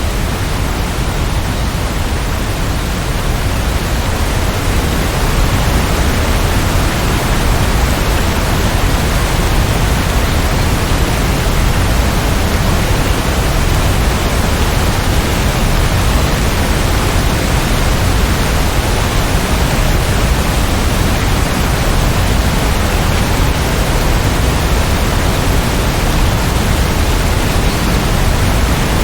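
Steady, heavy rainfall: a dense, even hiss of rain without distinct drops, thunder or other sounds.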